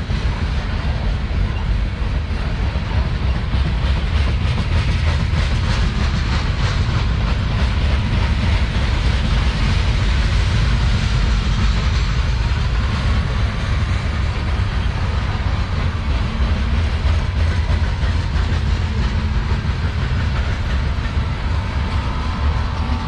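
Loaded CSX coal train rolling past: a steady, loud rumble of hopper cars with wheels clicking over the rail joints.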